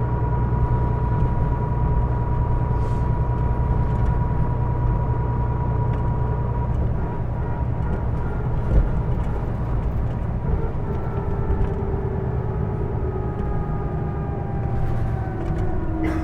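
Interior running noise of a Hino Blue Ribbon II city bus, with a steady low engine and road rumble and a high whine on top that falls in pitch in the second half. The whine is the abnormal noise this particular bus is known for. A single bump knocks once about nine seconds in.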